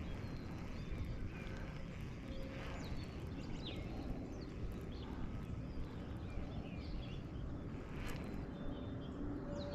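Small birds chirping now and then over a steady low rumble of wind and water noise.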